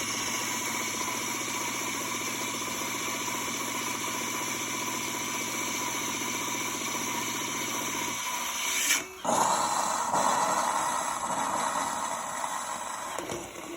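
Miele CM 5310 automatic coffee machine frothing milk for a cappuccino: its pump hums steadily under a hiss as milk is drawn up the tube. About eight seconds in the hum stops, and after a brief dip a louder hiss follows, as the milk container runs nearly empty.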